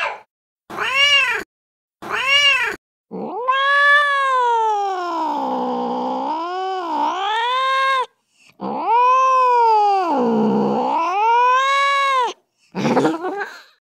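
Angry cat yowling: a few short yowls, then two long drawn-out yowls of about four seconds each with pitch that wavers up and down, then a short yowl near the end.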